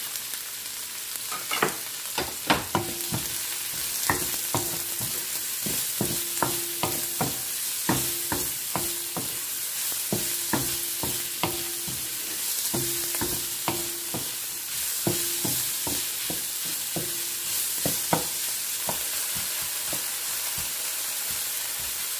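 Chopped onion sizzling in hot oil with garlic and ginger in a nonstick wok, stirred with a wooden spoon that knocks and scrapes against the pan many times over a steady sizzle.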